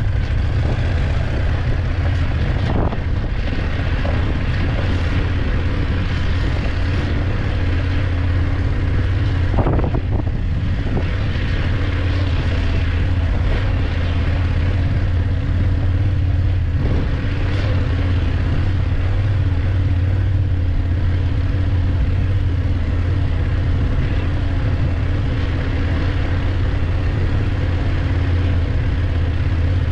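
BMW F850GS motorcycle's parallel-twin engine running at a steady, unchanging pitch, with a couple of short knocks from the bike or its mounted camera, about three and ten seconds in.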